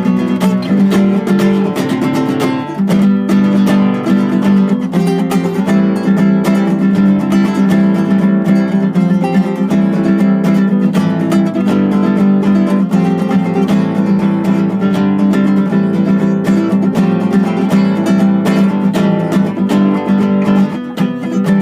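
Acoustic guitar strummed steadily, playing a continuous run of chords.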